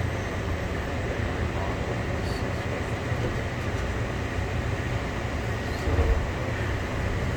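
Steady low rumble and hum inside an automated airport people-mover train car (a CX-type car) at a station stop, with a brief louder bump about six seconds in.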